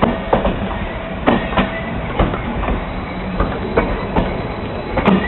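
Train hauled by Renfe class 269 electric locomotive 269-404 moving slowly out of the station. Its wheels clack over the rail joints two or three times a second at an uneven rhythm, over a steady rumble.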